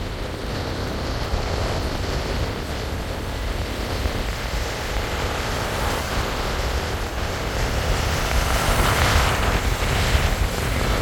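Road and wind noise of a moving car: a steady rumble and rush, getting louder about eight seconds in.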